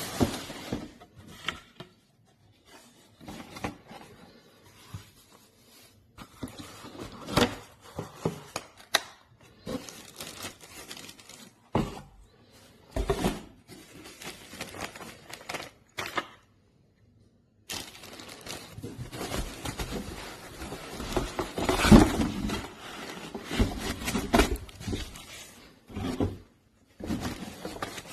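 Irregular knocks, clatter and rustling, as of objects being handled and moved about, with brief silent gaps in between.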